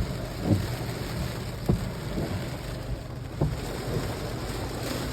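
Steady rain falling in a storm, an even hiss broken by a few short knocks.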